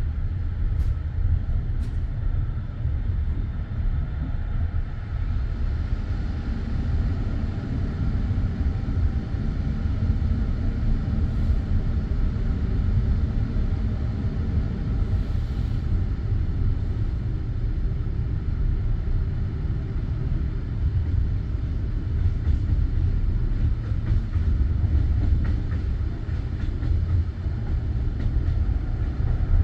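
Passenger train rolling along the track, heard from inside the carriage: a steady low rumble of wheels on rails, with a few faint clicks about a second or two in.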